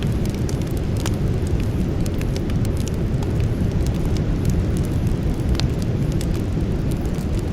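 Wood campfire burning: a steady low rumble under scattered sharp crackles and pops, with a louder snap about a second in and another just past the middle.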